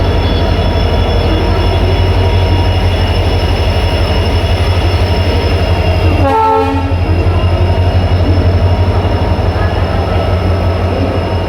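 A standing Indian Railways train's locomotive running steadily with a deep pulsing hum. About six seconds in it gives one short horn blast of about half a second.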